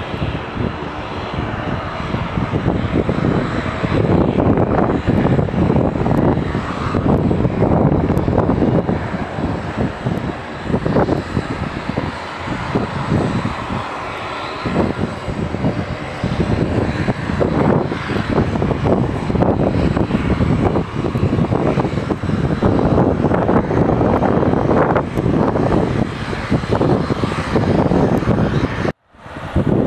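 Airliner engines running loudly close by, a steady rushing noise that rises and falls a little. The sound cuts off abruptly about a second before the end.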